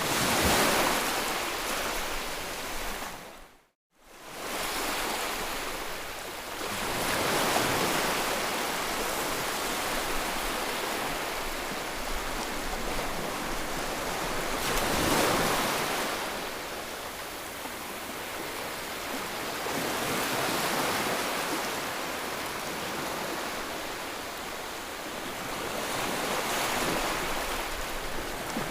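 Steady rushing white noise that swells and fades about every six seconds, like surf. It cuts out completely for a split second about four seconds in, then resumes.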